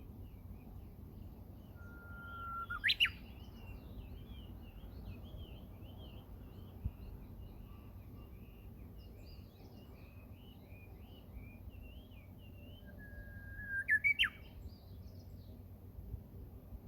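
Wild songbirds singing: a steady stream of quick twittering chirps, with two louder songs, each a held whistled note about a second long that breaks into a quick rising flourish, heard twice.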